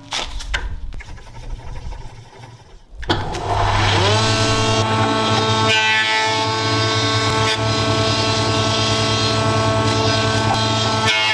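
An electric power tool's motor starts about three seconds in, rising quickly in pitch, then runs at a steady speed. Before it starts there are irregular knocks and handling sounds.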